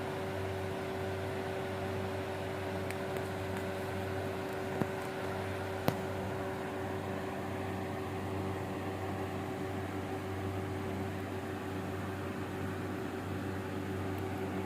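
A steady machine hum, like a running fan or appliance motor, with two faint clicks about five and six seconds in.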